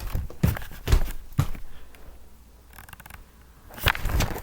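Footsteps, about two a second, then a pause and a sharp knock near the end.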